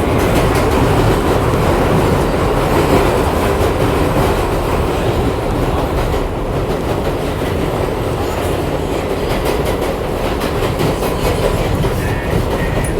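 New York City subway shuttle train running along the track: a steady loud rumble with the clickety-clack of wheels over rail joints.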